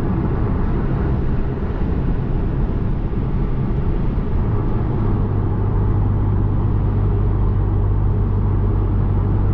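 A tuned Volkswagen Golf R's turbocharged four-cylinder engine and road noise while driving, a steady low rumble. About halfway through, a steady low engine drone sets in and holds.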